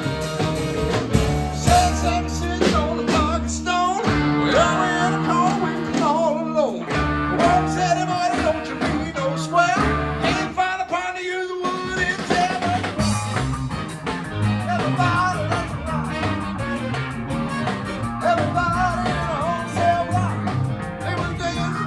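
Swing-style band music with electric guitar and a singing voice, in a bluesy rock-and-roll vein. The low end drops out briefly about eleven seconds in, then the music carries on.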